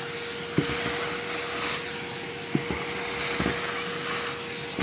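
Red Henry vacuum cleaner running with a steady whine and rushing hiss, with a few soft knocks about half a second, two and a half and three and a half seconds in.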